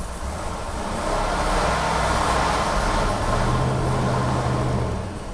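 Chevrolet 454 big-block V8 in a motorhome, heard from inside the cab, revved from idle to about 1,800 rpm about a second in, held, and let back down near the end. The owner says its fuel pump is dying.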